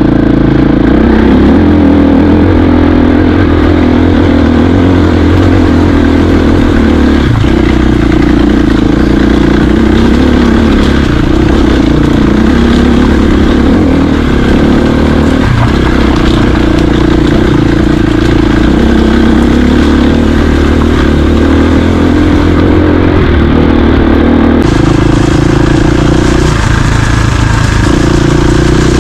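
Dirt bike engine running steadily as the bike is ridden, loud and continuous, with a change in engine note about twenty-five seconds in.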